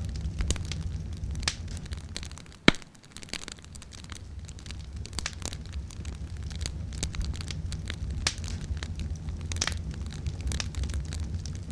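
Wood campfire crackling, with scattered snaps and one sharp, loud pop a little under three seconds in, over a steady low rumble.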